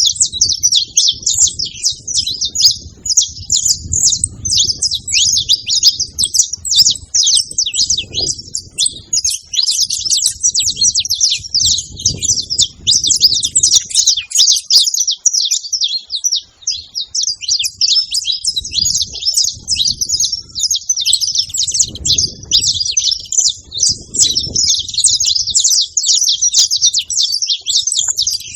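A flock of saffron finches chirping and singing together, many quick overlapping calls with no pause. Faint low rumbling comes and goes underneath.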